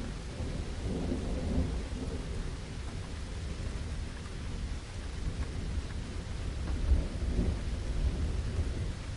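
Steady rain with distant thunder rumbling low underneath, swelling about a second in and again around seven seconds.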